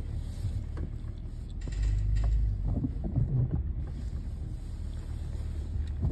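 A steady low rumble that swells louder for about a second near the two-second mark, with a few faint short sounds over it.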